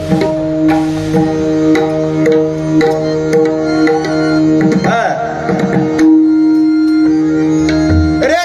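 Pakhawaj drum playing a rhythmic pattern over steadily held harmonium notes, the instrumental accompaniment of a bhajan.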